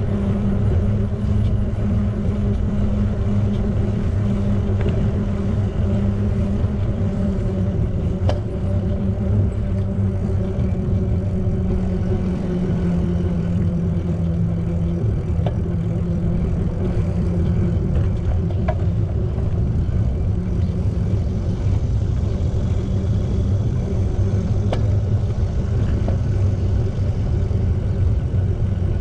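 Steady low rumble with a droning hum running through it, broken by a few sharp ticks.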